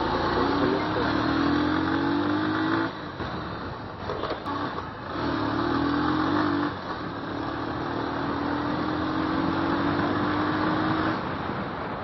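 Motorcycle engine pulling up through the revs three times, each rise in pitch breaking off as the throttle is eased or a gear changed, over a steady rush of wind noise.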